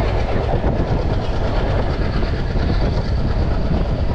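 Passenger train running at speed, heard from an open coach doorway: a steady rumble of the wheels on the rails.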